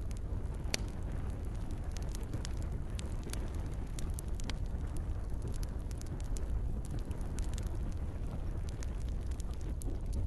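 Campfire crackling, with frequent sharp pops and snaps over a steady low rumble of burning and gentle rain.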